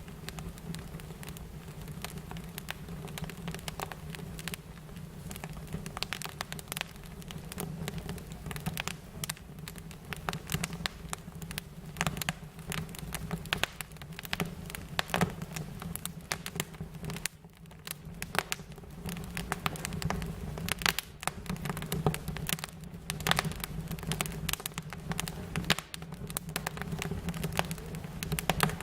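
Fire crackling, with frequent irregular pops and snaps over a steady low hum.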